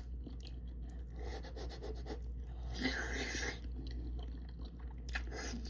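Close-miked eating sounds: small wet clicks of chewing, with a short noisy rush about three seconds in, over a low steady hum.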